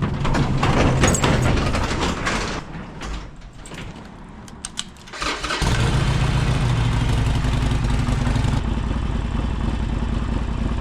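A vehicle engine running, louder for the first couple of seconds, then dropping for a few seconds before a steady, loud run sets in about five and a half seconds in.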